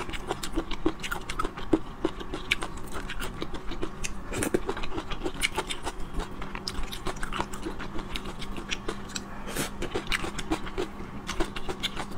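Close-miked chewing of chewy stir-fried sea-snail strips: a quick run of wet mouth clicks and smacks, several a second.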